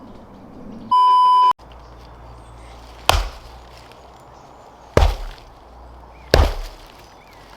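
A single loud, steady electronic beep lasting about half a second, then three heavy chopping strikes on wood, one every 1.5 to 2 seconds, each dying away quickly.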